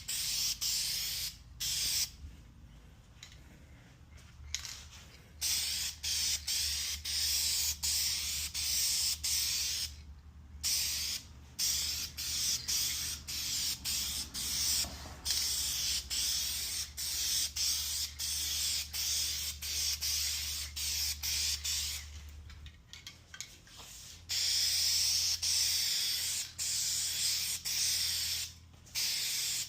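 Aerosol spray-paint can (rattle can) spraying in repeated passes: a loud hiss cutting on and off with brief breaks, and a few longer pauses between passes.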